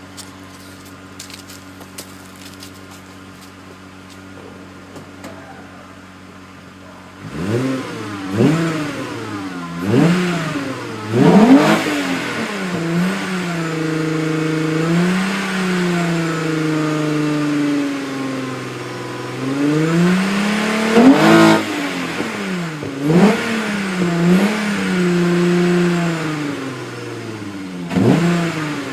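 Volkswagen Golf Mk3 VR6 engine through a Milltek exhaust, idling steadily at first, then revved from about seven seconds in: a run of quick blips, revs held up for a few seconds around the middle, and more sharp blips near the end.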